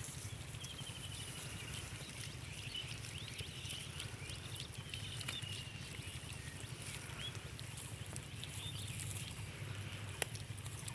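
Small birds chirping in short high calls and trills over a steady low hum, with a single sharp click about ten seconds in.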